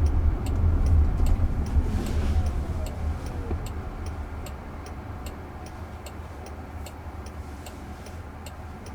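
A car's turn-signal indicator ticking steadily, about two and a half ticks a second, for a right turn, heard inside the cabin over low road rumble that fades as the car slows.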